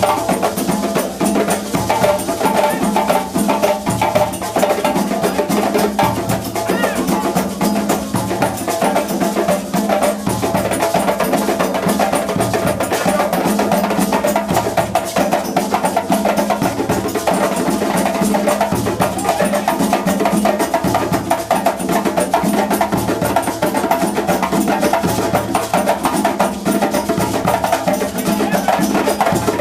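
Drum ensemble playing a fast, steady rhythm of dense strikes, with a deep drum beat recurring every second or two.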